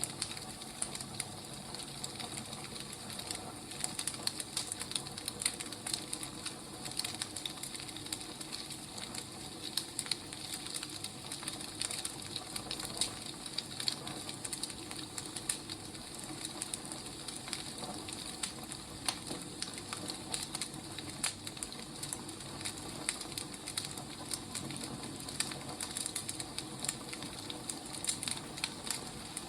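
Wood fire crackling, with irregular small pops and snaps over a steady soft hiss.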